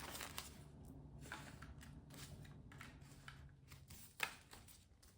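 Faint rustling and soft taps of paper banknotes and envelopes being handled, with one sharper tap about four seconds in.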